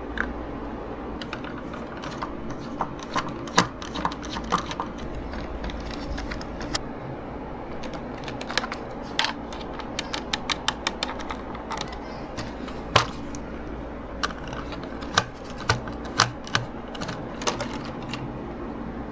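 Small hard parts and hand tools clicking and tapping irregularly as a small RC gearbox is worked on by hand, with a quick run of clicks partway through and one louder click. A steady low hum runs underneath.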